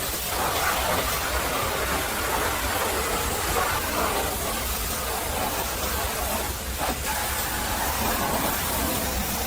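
Pressure washer spraying water against a truck: a steady hissing spray over a low, constant hum, with a brief dip about two-thirds of the way through.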